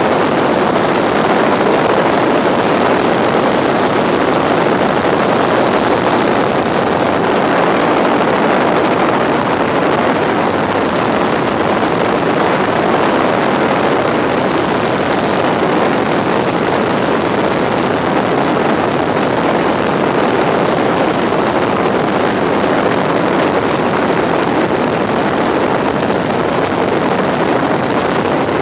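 Tour helicopter in flight: loud, steady engine and rotor noise.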